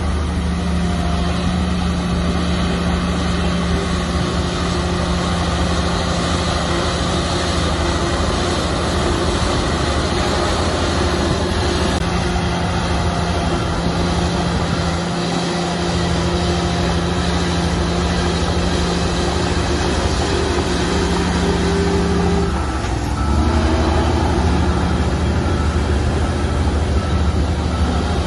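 Heavy diesel engine of a Komatsu bulldozer running hard under load, a steady deep drone with a clear engine note. About three-quarters of the way through, the engine note shifts and the sound grows a little louder.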